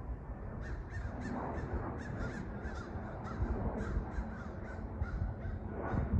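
A bird calling in a fast run of short, harsh notes, about four a second, over a steady low rumble.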